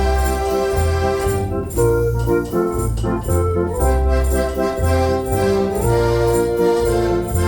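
Decap dance organ playing a pop song: sustained organ pipe chords over a moving bass line, with a steady drum and cymbal beat.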